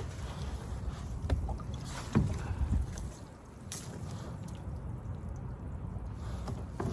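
Water and handling sounds on a kayak, with a few knocks against the hull, the loudest about two seconds in, over a steady rumble of wind on the microphone.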